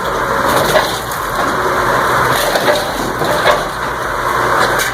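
Wood being split and crushed by a homemade firewood-splitting machine: continuous crunching and splintering, with several sharp cracks along the way.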